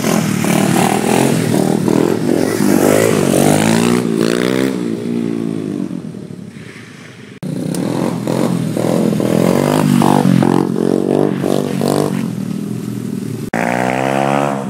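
Pit bike engine revving up and down, its pitch rising and falling in repeated sweeps. The sound breaks off abruptly about seven seconds in and again near the end, each time picking up at a different point.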